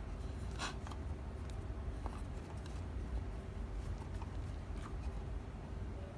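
Light scratchy handling sounds with a few faint, short clicks over a steady low hum, and no pop.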